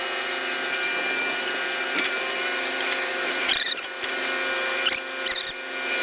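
Quadcopter drone's propeller motors whining steadily at several pitches, with brief wavers about three and a half and five seconds in.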